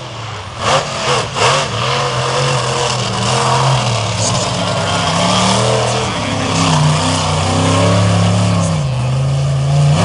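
Monster truck engine revving hard, its pitch rising and falling, with a few sharp bursts of noise in the first second and a half.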